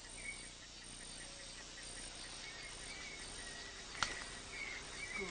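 Rainforest ambience: a steady hiss of insects with a pulsing high trill and short repeated chirps, and a single sharp click about four seconds in.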